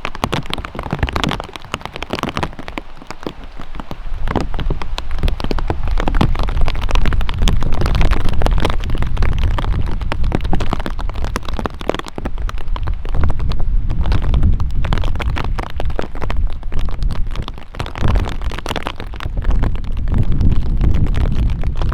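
Rain falling, with dense ticking of drops close to the microphone. A strong low rumble comes in about four seconds in and stays.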